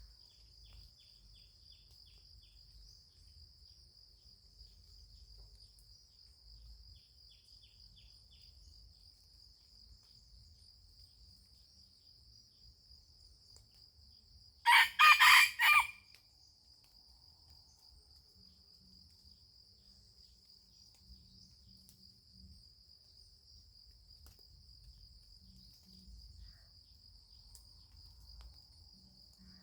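A junglefowl cock crows once about halfway through, a short, loud, clipped crow, over a steady high-pitched insect drone.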